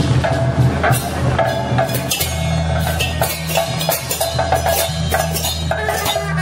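Temple-procession percussion: drums and sharp clacking strikes at an uneven beat, over a steady low hum.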